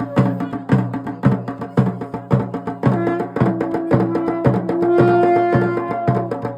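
Folk music: a drum struck in a steady beat about twice a second, joined about three seconds in by long held notes from a wind instrument.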